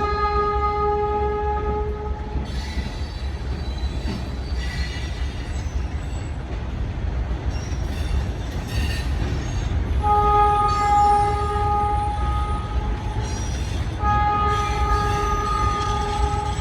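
A diesel freight locomotive's air horn blows three times: a blast that ends about 2 seconds in, another from about 10 to 12 seconds, and a third from about 14 seconds that runs on. Under it is the steady low rumble of the passing gravel train, with faint high wheel squeal between the blasts.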